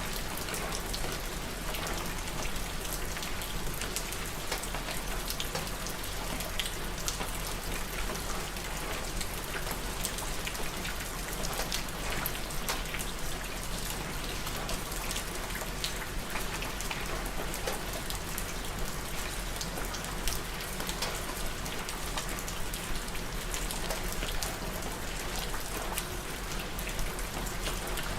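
Steady rain falling and pattering on surfaces, dense with many small drop ticks, no thunder.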